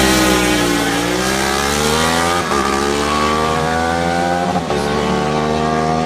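Superbike engine under hard acceleration, its pitch climbing steadily and dropping sharply at each upshift, three shifts in a row.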